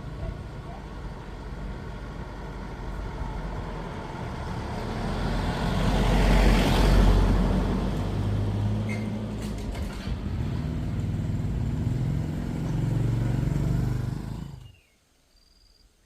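Motor vehicle running close by, swelling to its loudest about seven seconds in as it passes, with a low engine hum after; the sound cuts off abruptly near the end, leaving faint high chirps.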